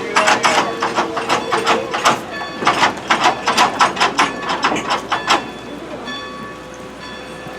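Passenger train rolling, with a fast run of sharp clacks, about six a second, that stops about five seconds in, leaving faint steady tones.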